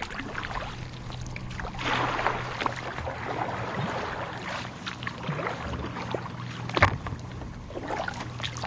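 Kayak paddling: paddle strokes splashing in the water, with a sharp knock about seven seconds in.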